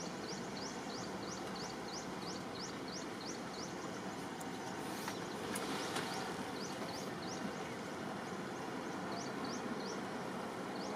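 Outdoor bush ambience: a steady background hiss with a bird calling in runs of short high chirps, about three a second, that pause for a couple of seconds midway.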